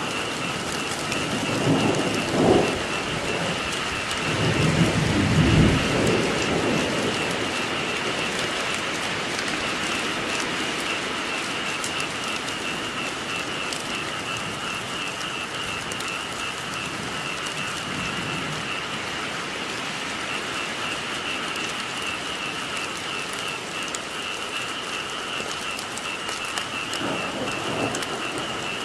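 Steady rain with rolls of thunder: one about two seconds in, a louder, longer one around five to six seconds in, and a fainter one near the end. Under the rain, a continuous chorus of frogs makes a steady pulsing trill.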